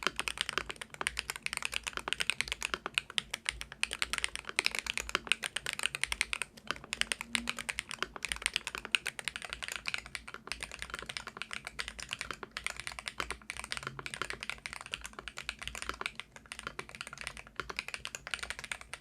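Fast, continuous typing on an ATK magnetic-switch gaming keyboard with Ice Blade magnetic switches and crystal keycaps: a rapid stream of keystroke clicks with a few short pauses.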